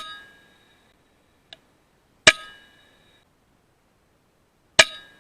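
Three shots from an FX Impact M3 .22 PCP air rifle, about two and a half seconds apart, each a sharp crack followed by a short metallic ring that fades over about a second.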